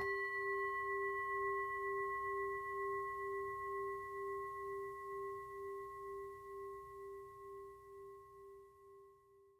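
A singing bowl struck once, ringing with a low tone and two higher overtones; the low tone wavers in a slow pulse as it fades away over about nine seconds.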